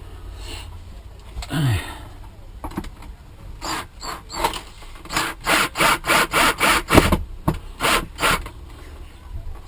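A self-tapping screw being driven into plastic with a screwdriver: a regular run of short turning strokes, about two or three a second, through the second half.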